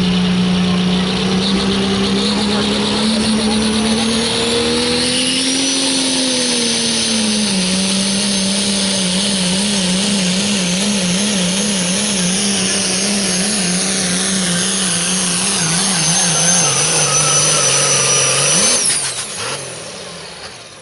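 Turbocharged pro stock diesel pulling truck, a Dodge Ram, at full throttle hauling the sled. The engine drone carries a high turbo whistle that climbs in the first few seconds and then holds. The engine pitch wavers mid-run, sags as the sled's load builds, and shuts off abruptly near the end.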